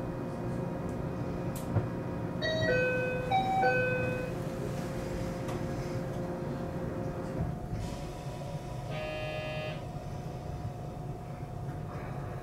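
521 series electric train standing in the station with its equipment humming steadily. About two and a half seconds in, a repeated two-note electronic chime sounds. About nine seconds in comes a short buzzing tone.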